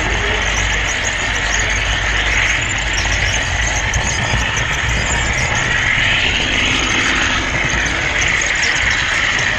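Model train camera car rolling along the layout's track: a steady, unbroken rumble and rattle of small wheels on the rails.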